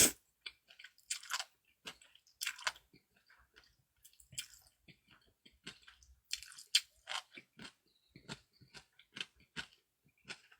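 Close-miked chewing of food, with many short, irregular wet mouth clicks and smacks.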